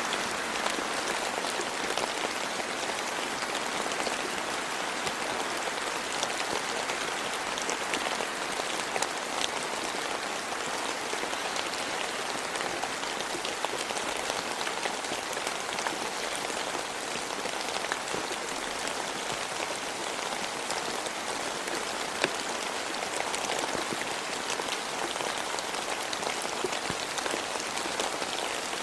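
Steady rain falling and pattering on surfaces, with many small drips and an occasional louder drop.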